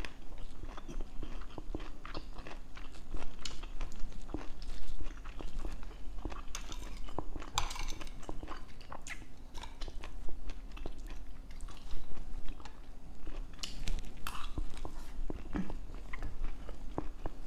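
Close-up wet chewing of food, with small crunches and mouth clicks, mixed with the clink and scrape of a metal spoon and fork on a ceramic plate.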